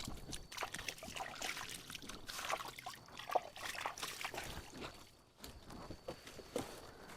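Water trickling and splashing, mixed with many small irregular knocks and rustles.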